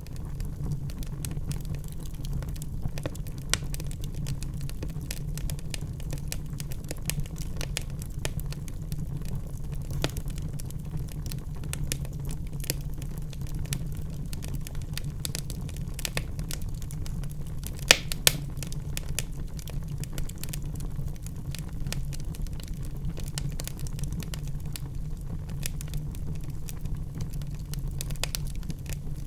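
Wood fire crackling in a fireplace: a steady run of small pops and snaps over a low, steady rumble. Two sharper pops come close together about two-thirds of the way through.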